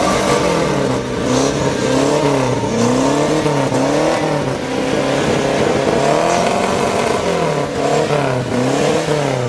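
Race car's engine revved repeatedly while standing still, the throttle blipped about once a second so the engine note rises and falls over and over.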